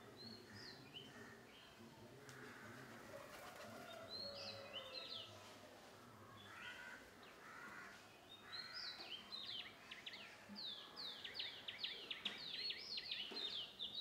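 Songbirds chirping, with scattered high chirps and, from about ten seconds in, a fast run of short falling notes that is the loudest part.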